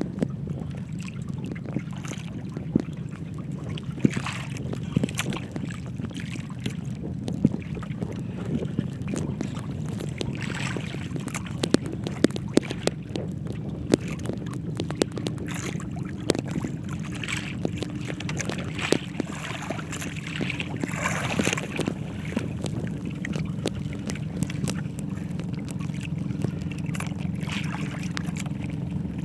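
Small fishing boat at sea: a steady low hum, like a motor running, with many irregular knocks and clatters from the boat.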